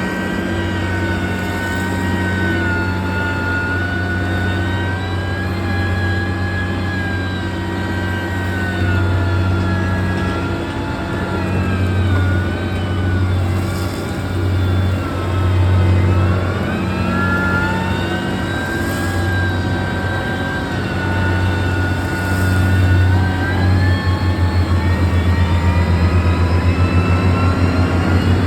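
A heavy road-construction machine's engine running steadily, with a whine that slowly rises and falls in pitch. About four seconds before the end the low hum turns into a rapid throb.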